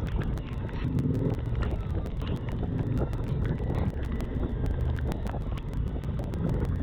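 Suzuki V-Strom 1050XT's V-twin running on the move, under heavy wind buffeting on the microphone, with many small sharp ticks throughout.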